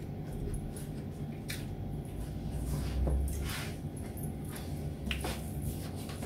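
Soft chewing of a mouthful of food, with a few brief rustles as hands are wiped on a cloth.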